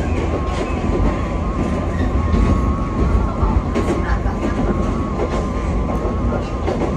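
Wakayama Electric Railway train running, heard from inside the car: a steady rumble of wheels on track with scattered clicks and a wavering whine.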